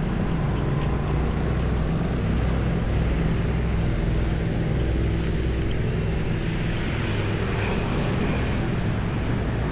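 City street traffic: vehicle engines running close by in a steady low hum, with general road noise.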